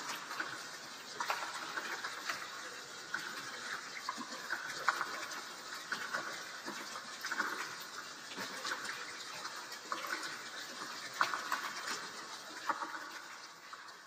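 Rain sound effect: steady hiss of rainfall with scattered drop clicks, slowly fading out near the end.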